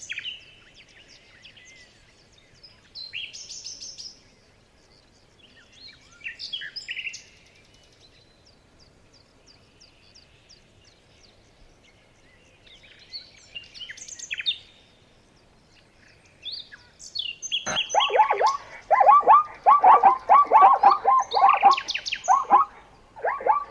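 Birds singing: short high, chirping phrases every few seconds, then, from about three-quarters of the way in, a much louder, rapid run of repeated lower-pitched calls.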